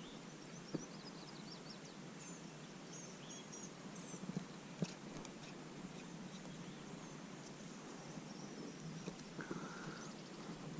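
Faint outdoor ambience with small birds chirping in short high bursts through the first half and a brief call near the end, and a few small clicks.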